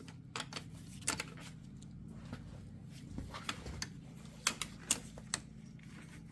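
Scattered light metallic clicks and taps as a wrench and a universal joint bearing cap are worked loose by hand, over a low steady hum.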